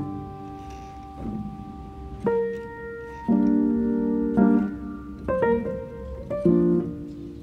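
Background piano music: sustained chords, with a new one struck about every second from about two seconds in.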